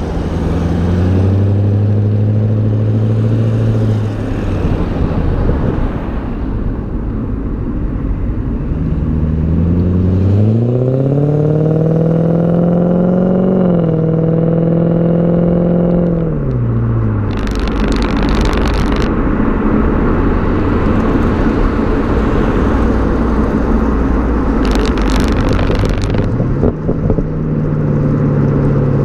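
BMW E39 540i's V8 exhaust while driving. The engine note climbs steadily under acceleration, then falls off as it eases. After that, steady road and wind noise takes over, with two short bursts of hiss, and the engine tone comes back near the end.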